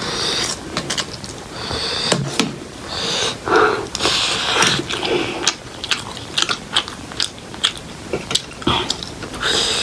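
Close-up eating sounds of spicy instant ramen noodles: wet chewing and biting, with many short mouth clicks and smacks.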